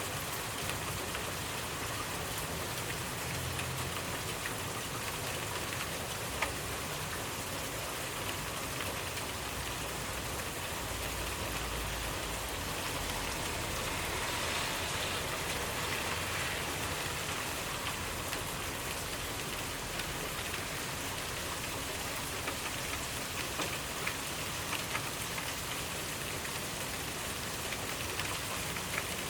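Steady rainfall pattering on surfaces, with scattered individual drops ticking, swelling slightly for a few seconds around the middle.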